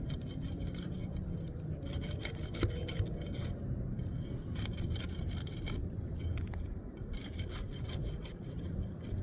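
Tar sealant strip between asphalt roof shingles being cut and scraped apart with a hand tool to unseal the shingles: a run of short, irregular scrapes and clicks.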